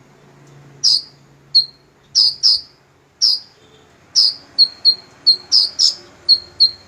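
Small songbird giving short, sharp, high chirps, one every half second or so at first, then quicker, about three a second, from about four seconds in.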